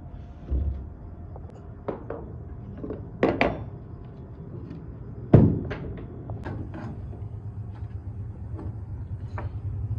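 A series of irregular knocks and thuds, the loudest about five seconds in, over a steady low hum.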